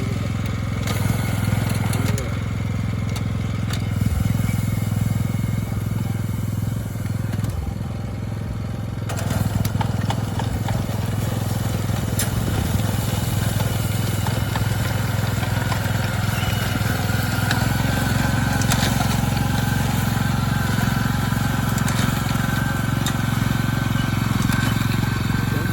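Small engine of a walk-behind rice binder running steadily as it cuts rice stalks and ties them into bundles.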